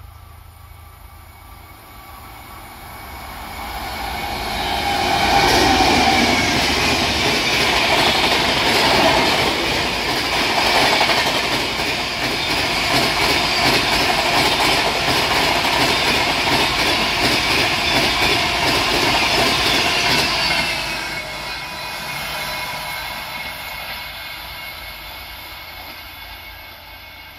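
Indian Railways express train passing at speed. Its wheel clatter and rumble build over a few seconds, stay loud for about fifteen seconds as the coaches run past, then fade away.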